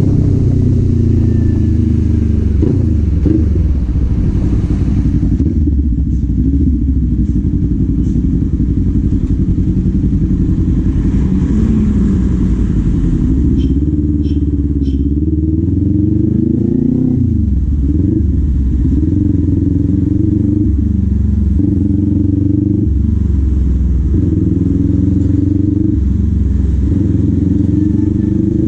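Kawasaki Z400's 399 cc parallel-twin engine running under a rider, its pitch rising and falling with the throttle and gear changes. A rushing hiss dies away about five seconds in as the bike slows, and the engine drops low and climbs again about two-thirds of the way through.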